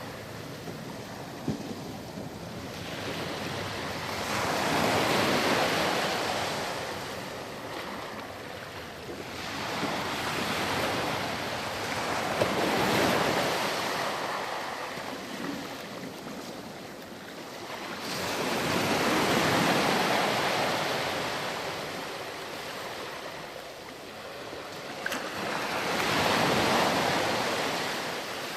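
Sea waves breaking and washing up a sandy beach, the surf swelling and receding five times.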